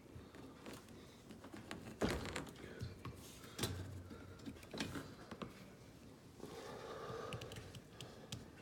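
A flat screwdriver prying and scraping at the plastic shaft seal on a dishwasher wash motor, with scattered clicks and a few sharp knocks, the loudest about two seconds in and again a second and a half later.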